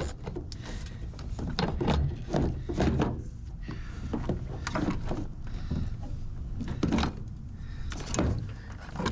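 A run of irregular clunks, clicks and scrapes, like a drill and metal parts being handled and knocked against a freshly step-drilled hole, with no drill motor running.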